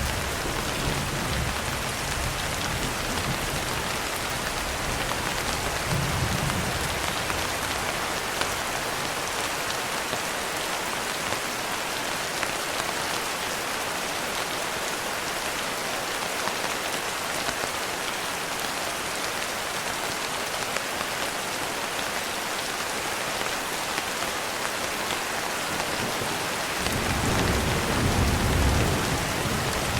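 Steady rain falling on a window, with brief low thunder rumbles near the start and a longer rumble of thunder near the end.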